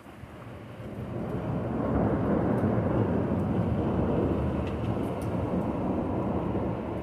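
Rolling thunder: a deep rumble that builds over the first two seconds, rolls on steadily, and eases near the end.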